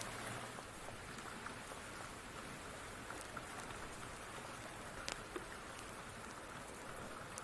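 Steady rain falling, with a few sharp crackling pops from a wood fire scattered through it, the clearest a little past the middle.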